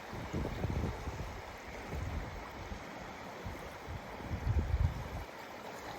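Lake waves washing and splashing, with wind gusting on the microphone in irregular low surges, the strongest about four and a half seconds in.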